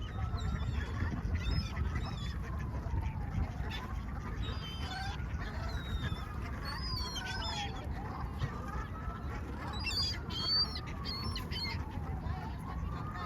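A siren wailing, its pitch rising and falling slowly about every four seconds, with small birds chirping over a steady low rumble.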